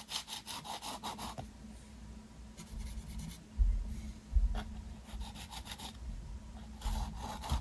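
Palette knife scraping acrylic paint across canvas in several short runs of quick strokes. Two dull low thumps come around the middle.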